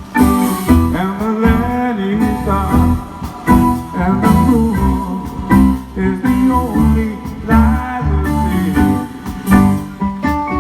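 Live band music: a blues-tinged song carried by guitar and a steady beat, with a voice singing over it.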